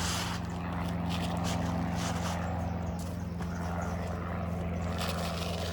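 A steady low engine drone with a fixed hum, with a few light taps and scrapes over it.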